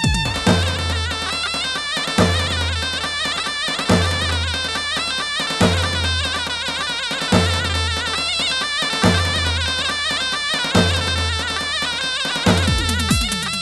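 Slow ağır halay folk music: a reedy zurna-style melody with wavering ornaments over a heavy davul beat that lands about every second and three-quarters.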